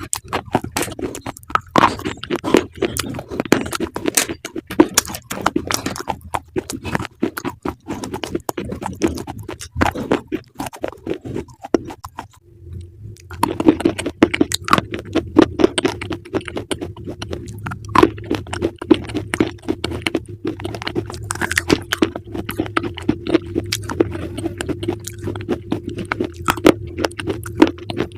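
Close-miked chewing of crunchy food: a dense run of sharp crunches and crackles. After a short pause about halfway through, a steady low drone joins underneath.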